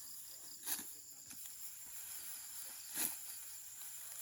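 Evening insect chorus of crickets, a steady high-pitched buzz. Twice, about a second in and again near three seconds, a brief swishing rustle of rice stalks being cut by hand.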